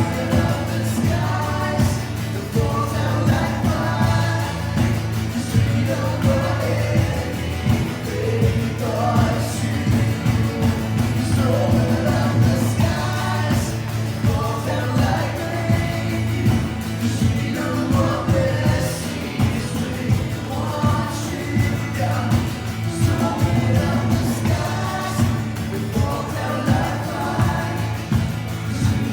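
Live worship music: a band with a steady drum beat and bass, and voices singing a melody over it.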